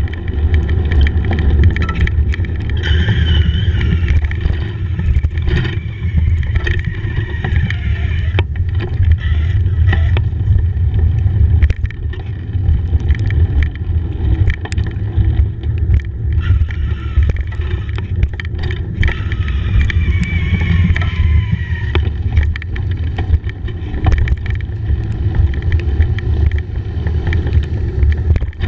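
Bicycle ride recorded on the move in the rain: a steady loud low rumble of wind on the microphone over tyre noise on a wet path, with scattered knocks and rattles and a few faint whining tones that rise and fall.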